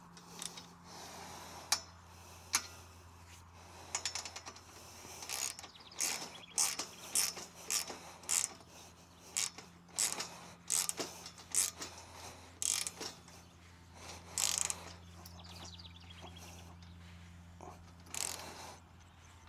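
Ratchet wrench clicking in repeated runs of short strokes, tightening the bolts on a metal non-penetrating roof mount.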